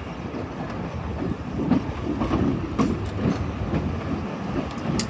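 Train carriage running along the track, heard from on board: a steady low rumble with irregular clicks from the wheels over the rails, and a sharp click near the end.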